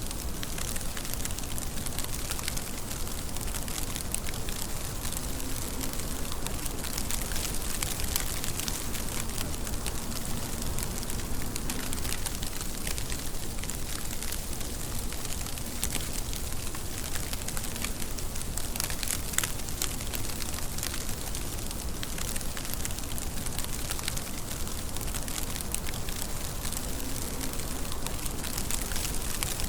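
Steady rain falling, with a dense crackling patter of drops striking a surface over a low rumble.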